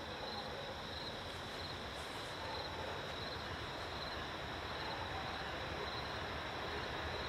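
Crickets chirping in a steady, regular pulse, over a low, even background rumble.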